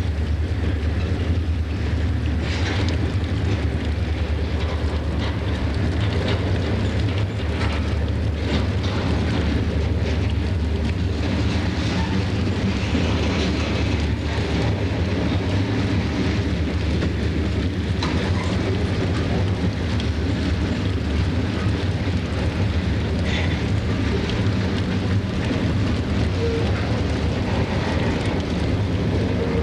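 Freight train diesel locomotives running steadily, a low engine drone that holds even throughout.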